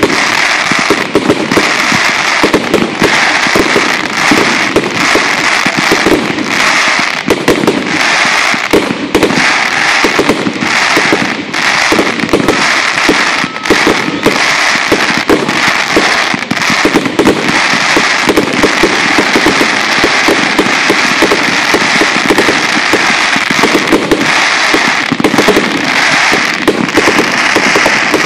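Aerial fireworks going off in a dense, unbroken string of loud bangs and crackles.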